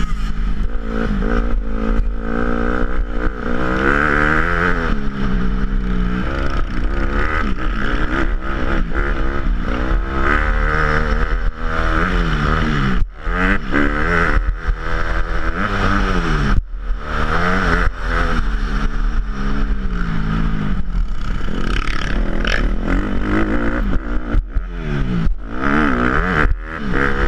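Motocross dirt bike engines revving, their pitch rising and falling again and again, with a few sudden brief drops.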